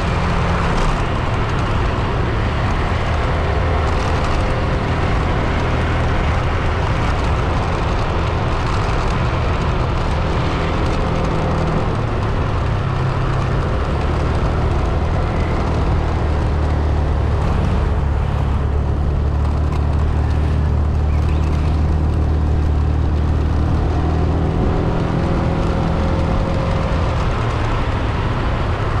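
A car's engine and tyre-on-road noise while driving: a steady low engine hum over a rushing road noise. The engine note shifts about twelve seconds in and again after about twenty-four seconds.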